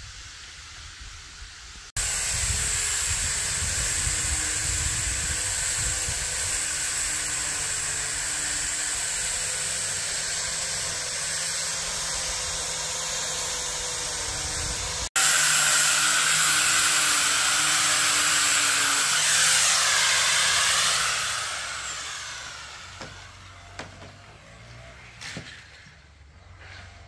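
Loud, steady hissing machine noise in two stretches. The second winds down about twenty seconds in with a falling whine, leaving a few light clicks and knocks.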